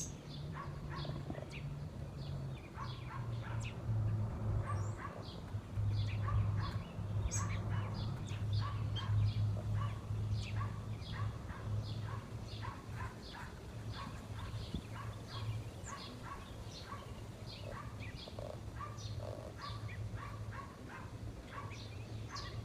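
Small birds chirping: many short, quick chirps from several birds. A steady low hum runs underneath.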